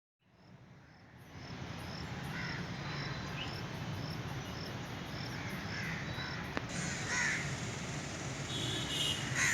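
Insects chirping in an even rhythm, about two or three chirps a second, over a steady low hum, with a few short calls scattered on top.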